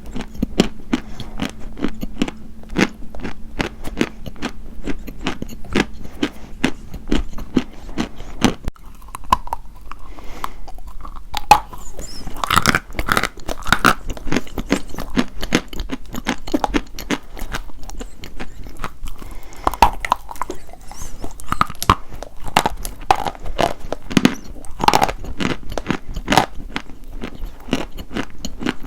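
Dry white chalk being bitten and chewed: a continuous run of crisp, irregular crunches, with a few louder bites now and then.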